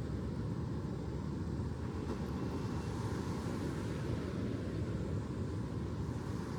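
Steady low rumbling noise, even in level, with no distinct events.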